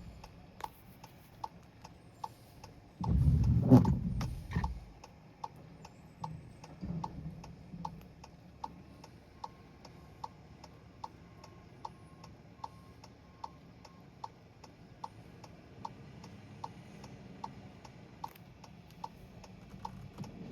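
Steady, even ticking of a vehicle's turn-signal flasher, about one tick every 0.8 seconds. A short, loud, low rumble breaks in about three seconds in.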